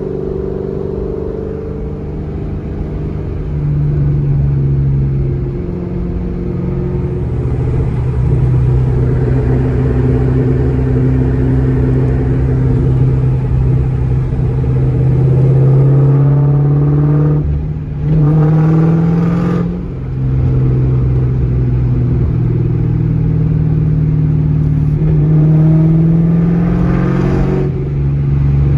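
2003 SVT Cobra's supercharged 4.6-litre V8 with Borla exhaust accelerating hard under full-throttle pulls, the engine note climbing steadily with the supercharger whining. The pitch drops suddenly at each upshift, about 18 seconds in and again near the end.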